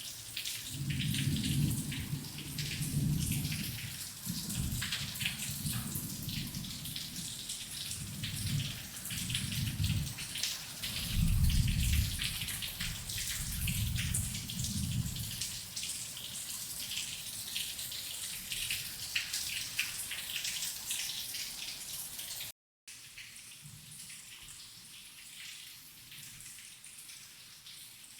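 Heavy rain, a dense patter of drops, with thunder rolling in long low rumbles for roughly the first fifteen seconds. The sound cuts out for an instant near the end, then the rain carries on more softly.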